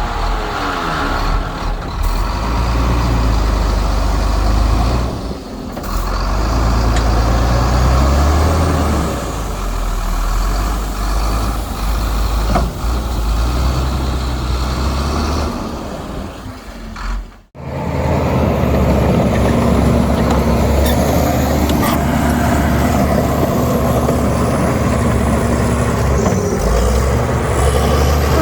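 Heavy diesel earthmoving machinery running, a deep steady engine sound that cuts out briefly and sharply past the middle. In the later part a thin high whine wavers above the engine.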